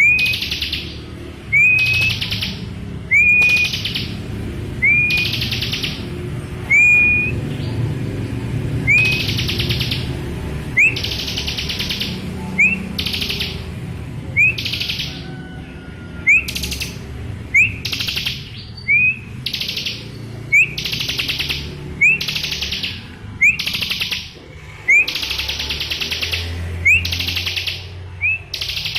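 Bar-winged prinia (ciblek) singing: a short whistled note, flat at first and then rising, followed by a harsh buzzy trill, the phrase repeated about every second and a half.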